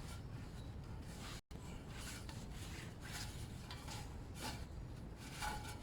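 Exhaust wrap being pulled tight and fed around a motorcycle exhaust pipe by hand: faint rubbing and rasping strokes of the wrap against the pipe.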